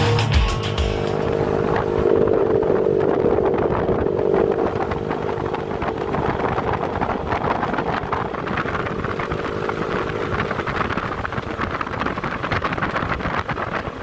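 Yamaha NMAX scooter's engine running at a steady speed while riding, with wind noise on the microphone.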